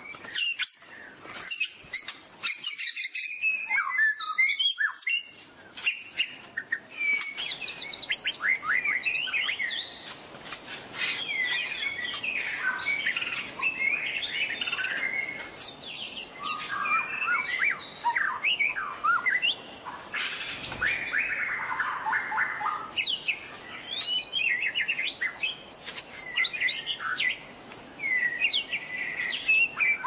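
A flock of white-eyes calling: many quick, high chirps and short twittering trills overlapping, growing denser after the first few seconds.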